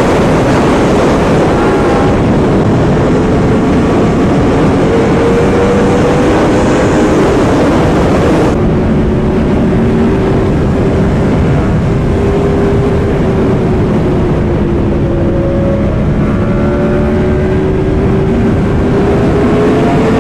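Yamaha R1M's crossplane inline-four engine, breathing through an aftermarket titanium exhaust, running at a near-steady cruise. Its note drifts gently up and down under heavy rushing wind noise from riding. About eight and a half seconds in, the high hiss drops off abruptly.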